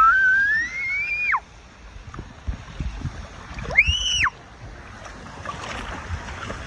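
Two high-pitched screams over a steady rush of water. The first rises in pitch and breaks off about a second and a half in. The second is a short, arched shriek about four seconds in.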